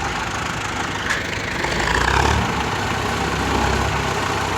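Tractor engine running steadily, with a short sharp click about a second in.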